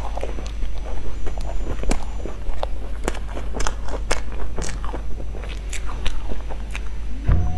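Close-miked biting and chewing of a crumb-topped cream-filled bun: a steady stream of small crunches and wet mouth clicks over a low steady hum.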